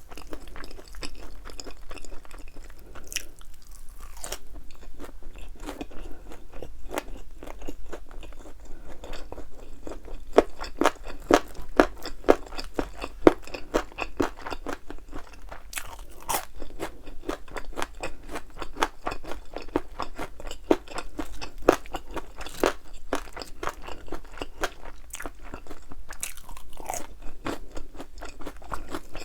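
Close-up crunching and chewing of thin, crispy-battered fried chicken wings: dense, irregular crackles of the crust breaking between the teeth, busiest about a third of the way in.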